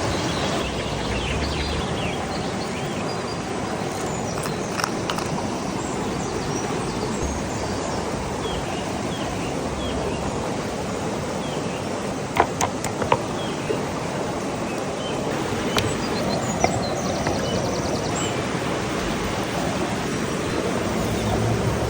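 Steady rushing outdoor noise with birds chirping over it, and a few sharp clicks about twelve to thirteen seconds in.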